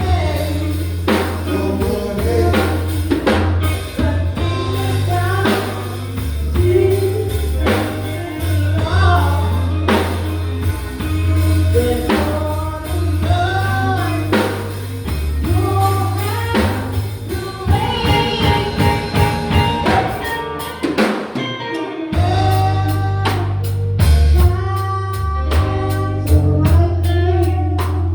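Live gospel band playing with a lead singer, drum kit, bass and keyboard under a steady beat. About three quarters through, the band briefly drops out, then comes back in with a busy, even drum pattern.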